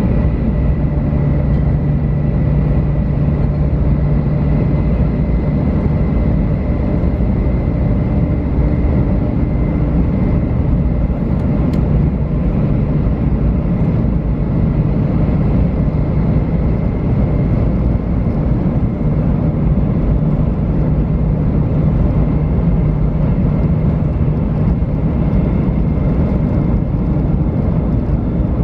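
JR West 500 series Shinkansen heard from inside the car while running: a steady, loud rolling rumble with faint steady tones. A low hum fades in and out twice.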